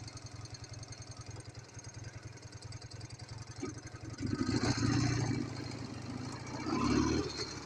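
Ural motorcycle's flat-twin engine, freshly overhauled, idling with an even, fast low pulse, then revved up twice, once about four seconds in and briefly again near the end.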